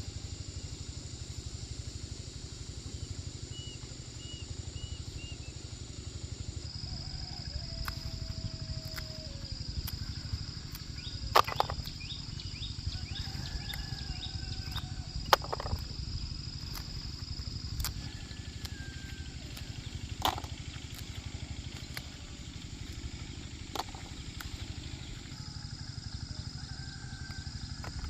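Outdoor rural ambience: a steady low rumble under a steady high-pitched insect drone, with a few short bird chirps and scattered sharp clicks.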